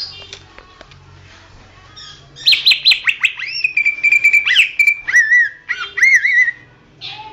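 Cucak ijo (green leafbird) singing a loud burst of whistled phrases about two and a half seconds in, lasting about four seconds. It starts as a run of quick falling notes, then moves into a held trill and looping, warbled notes.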